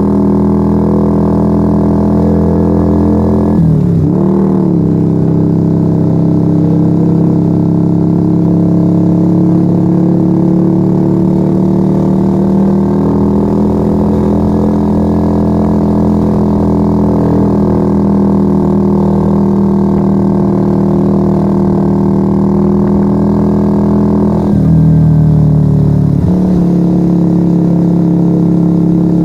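Yamaha XV125 Virago's 125 cc V-twin engine running loud through a straight-through Turbo Kit exhaust with its dB killers removed, under way on the road. The engine note dips and comes back about four seconds in, holds steady for most of the ride, then drops sharply near the end and settles at a lower pitch.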